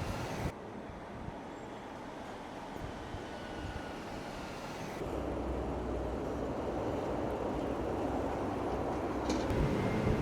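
Steady low rumble of a moving vehicle, which gets louder and deeper about five seconds in.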